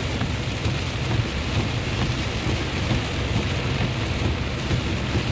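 Heavy rain beating on a moving car's windshield and body, heard from inside the cabin, over a steady low rumble of the car driving on the flooded road.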